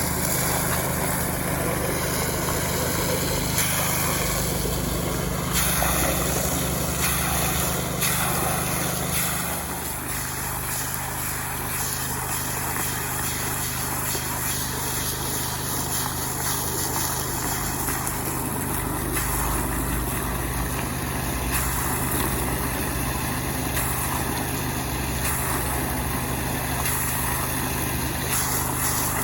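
Small Robin petrol engine running steadily, its note shifting slightly about ten seconds in.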